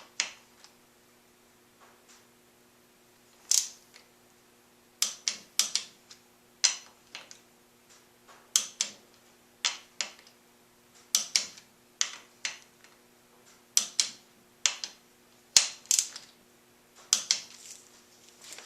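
Hand tool on motorcycle fork hardware, most likely a ratchet worked in short strokes: sharp metallic clicks in irregular groups of two or three with pauses between. A faint steady hum runs underneath.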